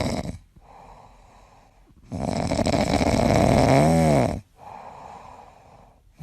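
Loud snoring, rasping breaths in slow alternation: a short rasp at the start, a long loud one through the middle that briefly rises and falls in pitch, and quieter breaths between.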